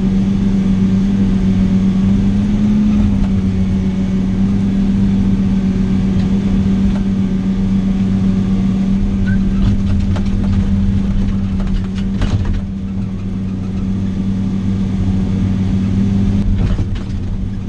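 Vehicle engine running at a steady, unchanging pitch, heard from inside the cab, with a few brief rattles or knocks about two-thirds of the way through.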